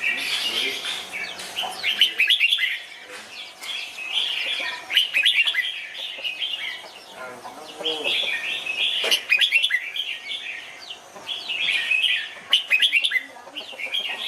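Red-whiskered bulbuls singing in bursts of quick chirping phrases every few seconds, a recorded model song of the kind played to train caged bulbuls.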